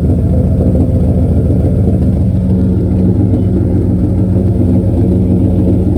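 Pickup truck engine idling steadily with a deep exhaust rumble from its dual exhaust, a megaphone-shaped extension fitted to the tailpipe.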